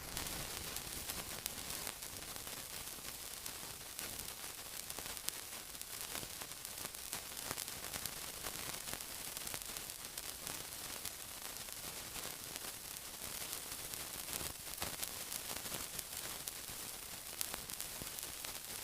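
Steady sizzling: a dense hiss with many fine crackles and pops throughout, starting abruptly.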